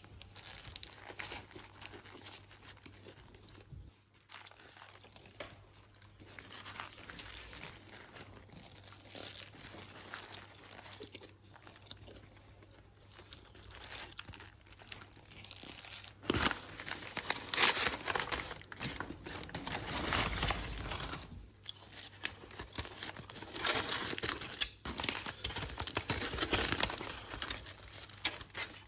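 Paper food wrapper crinkling and tearing as a wrap or burger is unwrapped and handled, with sharper, louder rustles in the second half.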